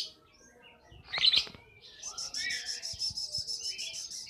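Young lovebird chirping: one loud, sharp chirp about a second in, then a fast, even string of short high chirps from about two seconds in.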